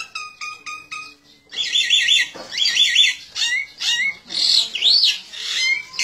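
Bird calls: rapid runs of high, chirping notes with quick pitch sweeps, starting about a second and a half in.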